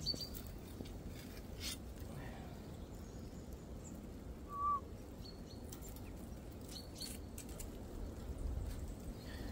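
Quiet outdoor ambience with one short bird chirp about halfway through and a few faint clicks of a wire snare being worked with a stick.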